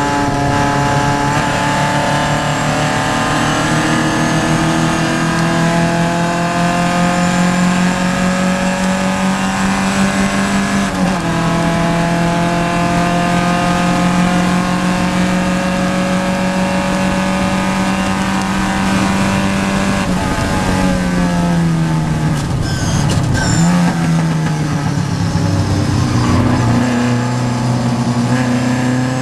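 Vintage Triumph race car's engine heard from inside the car under racing load. The revs climb slowly, drop sharply in an upshift about eleven seconds in, and hold steady. They fall with a few quick blips around two-thirds through as the car brakes and shifts down, then climb again near the end.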